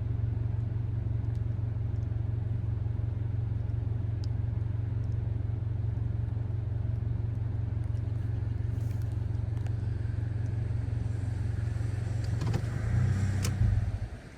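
Car engine idling with a steady low hum. Near the end it briefly gets louder with a click, then the hum cuts off.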